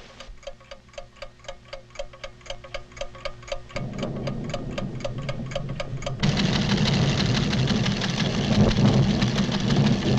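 Cartoon sound effect of instrument ticking, about five even clicks a second over a low hum. A low rumble of an earth tremor comes in partway through and grows into a loud, steady rumbling for the last four seconds.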